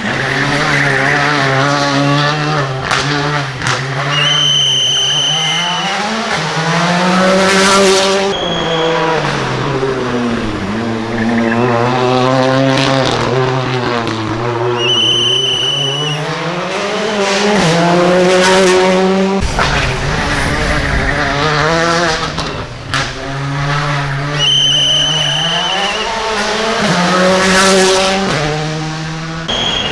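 Rally cars driven hard on a special stage: engines revving up through the gears and dropping at each shift, in several separate passes, with three short, high-pitched tyre squeals.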